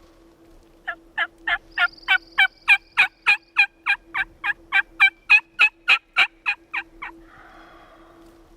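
A long, even run of turkey yelps: about twenty short notes at roughly three a second, starting about a second in and stopping about seven seconds in.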